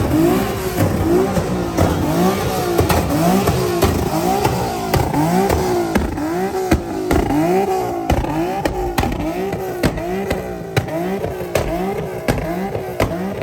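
Car engine revved over and over, its pitch rising and falling about twice a second, with sharp pops between the revs.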